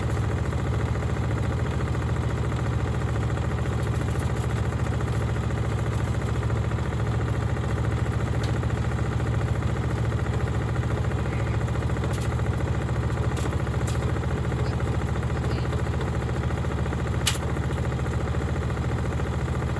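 Gorenje SensoCare front-loading washing machine running with heavy bricks in the drum: a loud, steady mechanical drone with a fast vibration, and one sharp click about seventeen seconds in.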